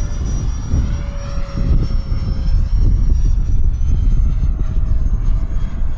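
The 50 mm electric ducted fan of a foam RC jet whining in flight, a thin high tone that shifts slightly in pitch, under heavy wind buffeting on the microphone.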